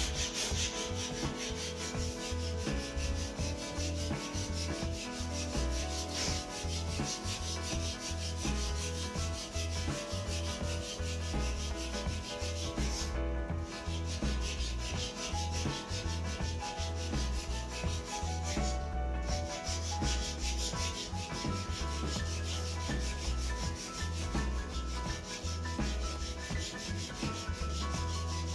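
Sandpaper rubbing steadily and quickly along a new wooden snooker cue shaft, a continuous dry scratching.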